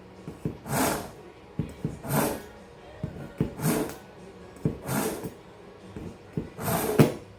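Kitchen knife being sharpened: about five long, scraping strokes of the blade along a sharpener, one every second and a half or so, with light clicks between them.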